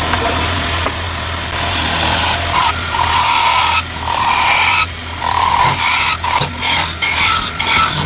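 Bamboo root being worked with an abrasive tool: repeated rasping strokes over the wood, each about a second long with brief breaks between them, over a steady low hum.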